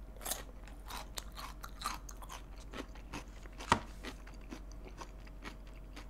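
Close-up chewing of crisp pickled radish cubes (chicken-mu), with irregular wet crunches; the sharpest crunch comes a little past halfway.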